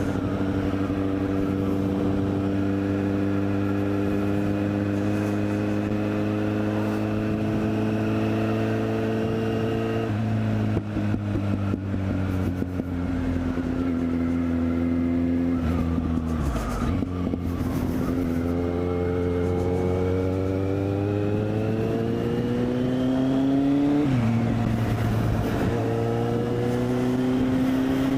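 Kawasaki Z800's inline-four engine through a LeoVince SBK aftermarket exhaust, heard from the rider's helmet while riding. The engine note eases down at first, then climbs in pitch under acceleration, drops sharply at a gear change near the end, and climbs again.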